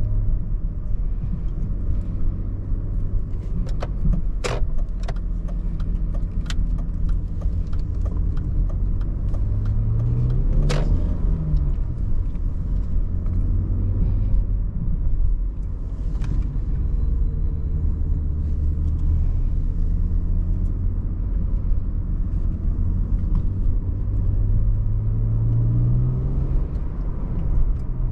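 BMW 530i E39's 3.0-litre inline-six petrol engine heard from inside the cabin at low town speed. Its note rises as the car accelerates about ten seconds in, then drops after a sharp click, and rises again near the end. Another sharp click comes about four seconds in.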